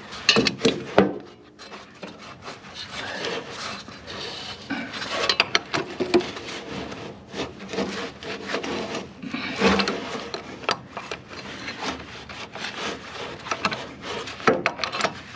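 Irregular scraping, rubbing and clicking of metal parts as the long-seized 1958 MGA engine is worked round by hand at the fan, freshly freed with penetrating oil.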